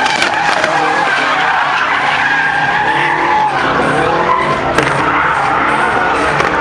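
Motocross bike engines revving hard, their high pitch wavering up and down as the throttle is worked.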